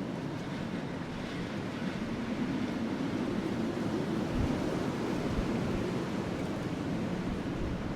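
Wind blowing steadily over a burning wood fire, swelling a little through the middle, with a few faint crackles.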